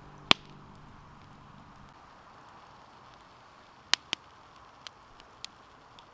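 Campfire burning with a faint steady hiss and a few sharp pops from the wood: one loud crack just after the start, two close together about four seconds in, then a couple of smaller ticks.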